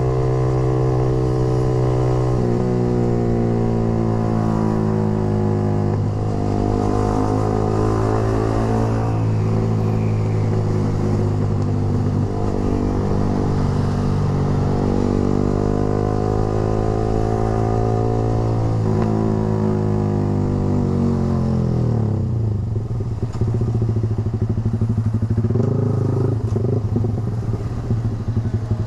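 Yamaha R15 V3 single-cylinder engine through a Proliner short aftermarket racing exhaust while riding: a steady engine note whose pitch steps at gear changes, then falls as the bike slows about three quarters of the way through, followed by a rougher, uneven running sound.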